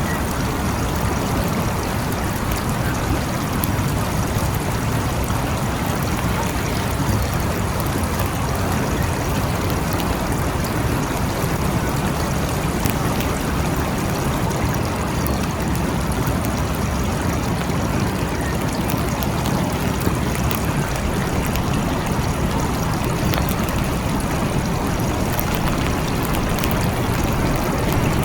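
Steady heavy rain: an even, unbroken hiss with a deep low rumble under it and faint scattered ticks of drops.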